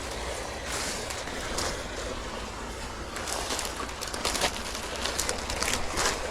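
Irregular rustling and crunching of someone pushing through wet rainforest undergrowth on foot, over a steady background hiss.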